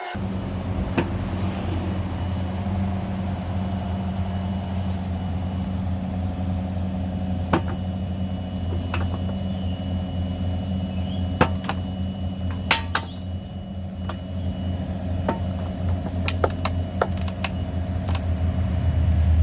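Kubota excavator's diesel engine running steadily, with scattered sharp knocks and clicks over it.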